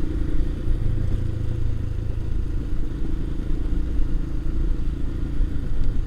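Motorcycle engine running steadily at an even, low rumble.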